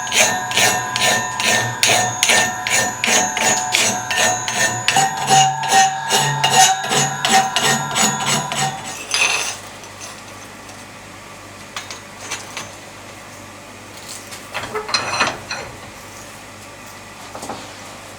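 Blacksmith's hammer striking steel on an anvil in a steady run of about three blows a second, each with a metallic ring. The hammering stops about nine seconds in after one louder clang, and a few scattered clanks of metal follow.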